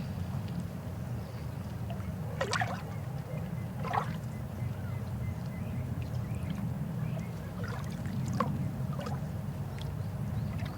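A river flowing: a steady low rush of water, with a few brief splashes and gurgles standing out over it.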